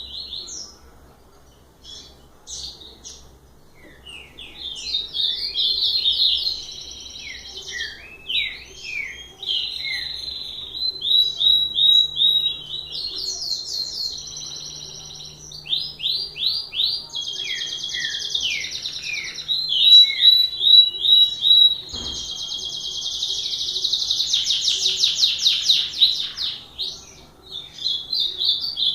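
Songbird singing a long, varied song of rapid chirps, sweeps and trills, with only brief pauses. There is a single sharp click about three quarters of the way through.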